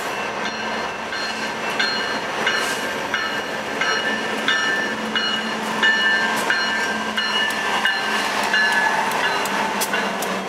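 Freight train passing close by behind BNSF diesel-electric locomotives: a steady diesel engine hum with the rumble of the train rolling. High-pitched tones start and stop about every half second throughout, and a few sharp clicks come near the end.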